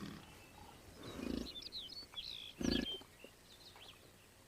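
Bison bull bellowing during the rut: two deep, rumbling calls, a short one about a second in and a louder one near three seconds in. Small birds chirp high above.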